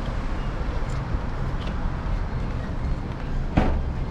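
Steady low rumble of wind and rolling from an electric scooter ride, with one sharp knock about three and a half seconds in.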